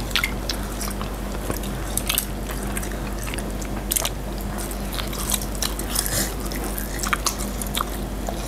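People biting and chewing latiao, the chewy spicy Chinese gluten strips, heard as scattered wet mouth clicks.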